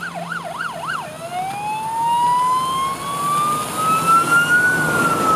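Emergency vehicle siren on a fast yelp, about three sweeps a second, switching about a second in to a slow wail that rises steadily and starts to fall near the end.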